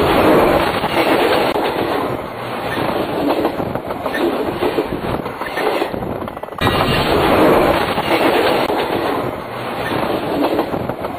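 A train rolling directly over a microphone set low between the rails: wheels clatter and the cars rumble heavily overhead. The sound breaks off abruptly about six and a half seconds in and resumes at full loudness.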